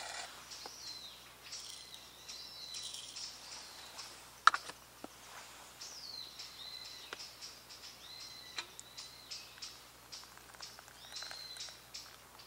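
Birds calling in woodland: short high chirps and falling whistled calls, repeating every second or two. One sharp knock about four and a half seconds in is the loudest sound, with a few small ticks around the calls.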